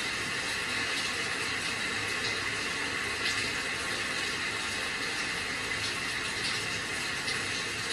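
Steady rain: an even hiss with a few faint louder drops scattered through it.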